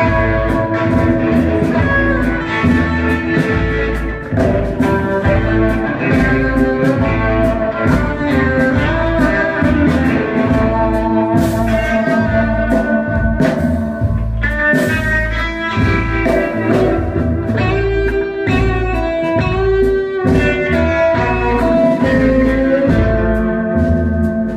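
Live country-blues band playing an instrumental passage: guitar over a steady bass pulse.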